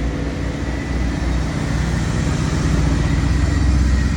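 A car engine running steadily with a low drone, growing slightly louder toward the end.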